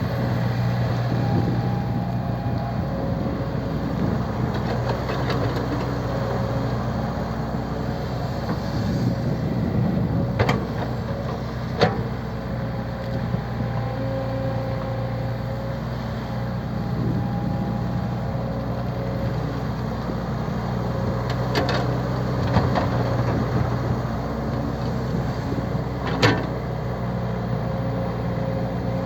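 Truck engine running steadily with a low drone, with a few sharp clicks or knocks scattered through.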